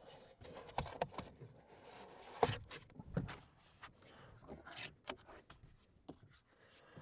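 Foam board being handled, rubbing and scraping irregularly with a few sharp knocks, the two loudest a little before and after the middle.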